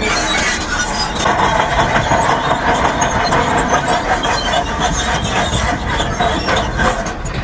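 Heavy earthmoving machinery running, with a dense engine rumble and scattered clanks; a noisy higher band comes in about a second in.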